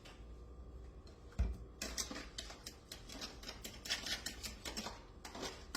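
A fork beating buttermilk into an egg wash in a bowl: a dull knock about a second and a half in, then fast, continuous clicking of the fork against the bowl.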